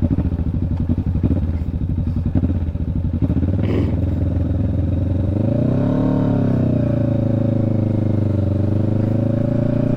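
Motorcycle engine running under way, heard from the bike itself. About five seconds in the revs rise briefly, then ease back and hold steady.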